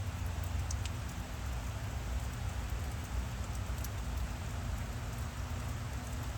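Steady outdoor background noise: an even hiss over a low rumble, with a couple of faint ticks.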